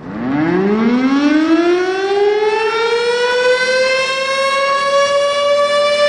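A siren winding up: its pitch rises over about two seconds, then holds steady in a loud, even wail.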